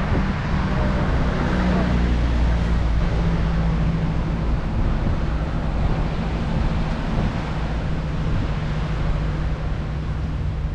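Steady low engine rumble from a ship under way, with wind on the microphone and a wash of water over it.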